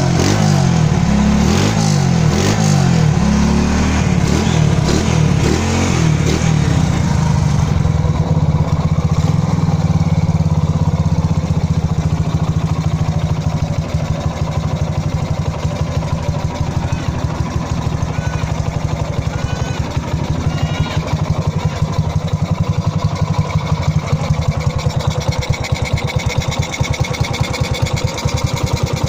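Honda EX5's air-cooled single-cylinder four-stroke engine, bored out to a 59mm big-bore kit and fitted with a modified exhaust, idling steadily with a rapid, even exhaust beat.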